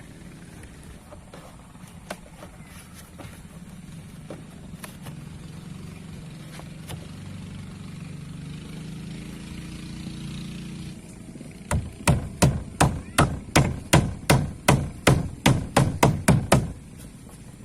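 A hammer striking about fifteen quick, even blows, roughly three a second, in the second half. Before that, only a low steady hum with a few faint clicks.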